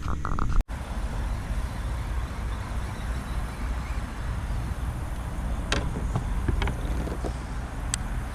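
Steady low rumble of distant road traffic, with a few faint clicks in the second half.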